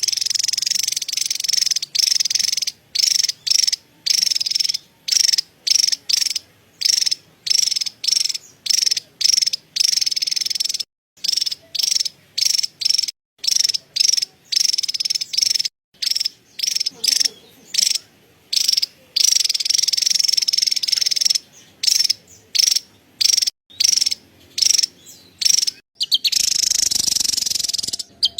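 Javan tesia chattering: a dry, high-pitched rattling churr, coming in quick bouts of about half a second to a second separated by short gaps, with one longer unbroken run about two-thirds of the way through.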